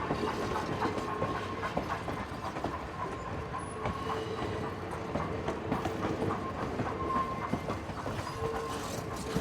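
Passenger cars of a train rolling past, their wheels clicking over the rail joints, with a squeal that comes and goes.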